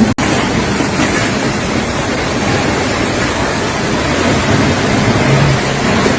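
Strong wind rushing and buffeting the microphone in a steady, loud noise, broken by a brief gap just after the start.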